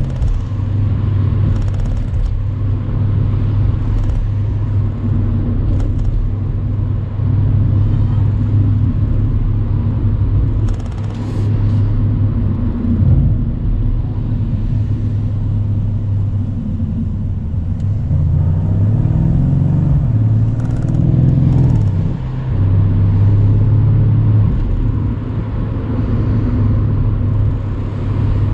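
Mercedes-AMG C63 cabriolet's twin-turbo V8 running under way at a steady cruise, a low, loud engine note. Its pitch sweeps up and down briefly a little before the middle and again for a few seconds after it, as the revs change, then settles.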